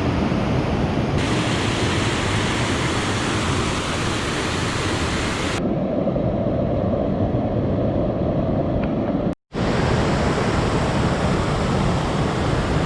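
Steady rushing of a mountain stream's water. Its tone changes abruptly about a second in and again about halfway, and it cuts out for an instant shortly after.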